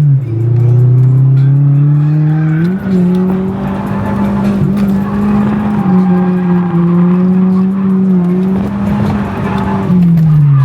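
Drift car's engine held at high revs through a slide, with tyre squeal over the top. The engine note drops just at the start, climbs back about three seconds in and holds, then drops again near the end.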